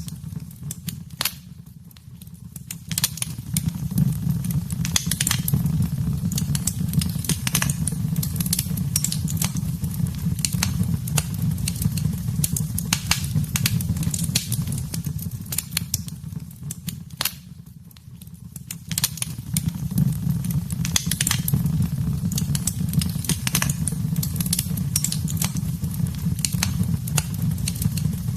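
Wood fire in a fireplace crackling, with frequent sharp pops and snaps over a steady low rumble of the flames; the sound dips briefly twice, about two seconds in and again past the middle.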